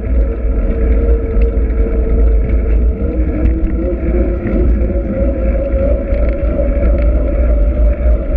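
Trek X-Caliber 8 mountain bike being ridden, picked up by a GoPro on the bike: heavy wind rumble on the microphone with a steady hum that shifts slightly in pitch.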